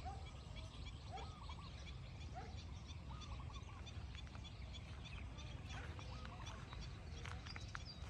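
Birds calling in open countryside: several short, arching mid-pitched calls in the first half and many faint high chirps throughout, over a steady low rumble. A cluster of sharp ticks follows near the end.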